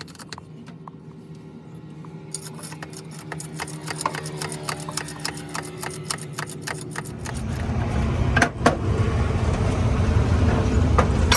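A motor vehicle engine running with a steady hum and rapid clicking, then a much louder low rumble from about seven seconds in.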